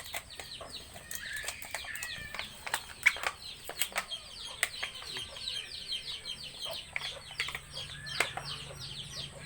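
Birds chirping busily, many short falling chirps in quick succession, with scattered sharp clicks.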